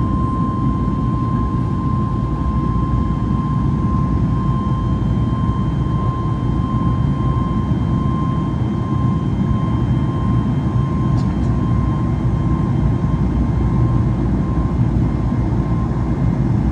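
Boeing 737 MAX 8's CFM LEAP-1B jet engines running steadily at takeoff or climb power: a deep, even rumble with a steady high whine over it.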